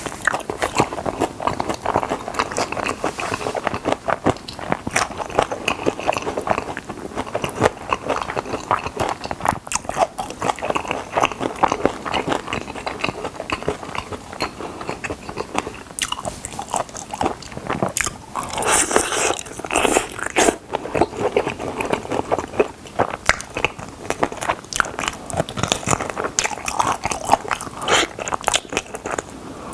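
Close-miked biting and chewing of crispy fried chicken drumsticks: a continuous run of crisp crunches, with a crisper, louder stretch about nineteen seconds in.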